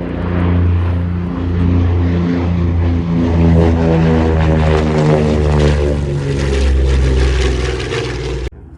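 A Douglas A-26 Invader's twin radial piston engines run loudly as it makes a pass, a deep propeller drone. The sound cuts off abruptly near the end.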